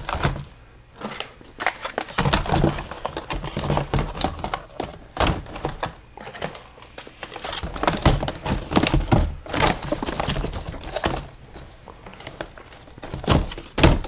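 Mylar food-storage bags crinkling and thunking as they are laid by hand into a plastic bin, with irregular rustles and a few louder thumps.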